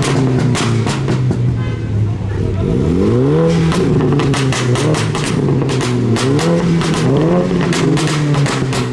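A modified car's engine is revved over and over. Its pitch climbs and then holds four or five times, and sharp cracks are heard throughout.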